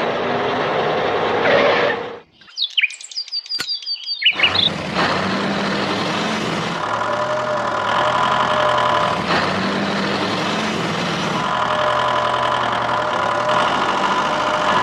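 Steady whirr of a small motor-driven toy machine, broken off about two seconds in by a couple of seconds of high, gliding bird-like chirps, after which the steady machine sound starts again.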